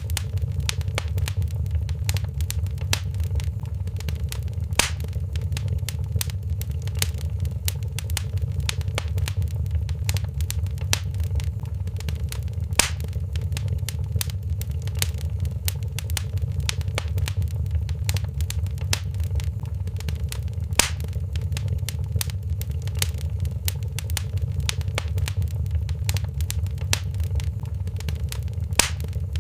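Fireplace fire crackling: a dense run of small crackles over a steady low rumble, with a louder pop about every eight seconds.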